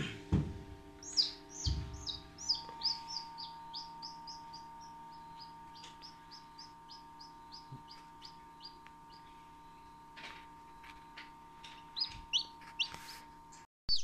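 A series of short, high, falling bird chirps, about two or three a second, over the steady hum of a running egg incubator. A few low knocks come near the start.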